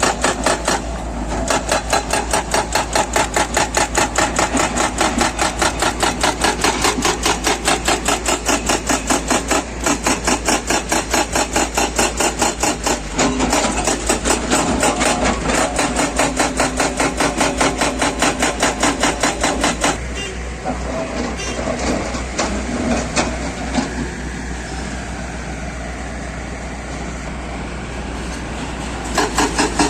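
Excavator-mounted hydraulic rock breaker hammering rock in a fast, even series of blows, about five a second, over the diesel engine. The hammering stops about two-thirds of the way through, leaving the engine running steadily, and starts again near the end.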